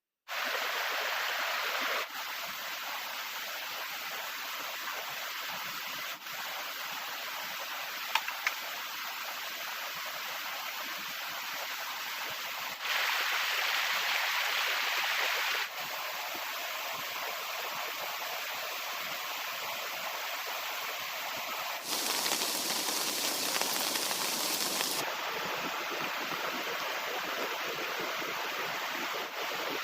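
Steady rush of heavy rain and fast-flowing river water. Its loudness and tone jump suddenly several times, as if separate shots were cut together, with a couple of faint clicks about eight seconds in.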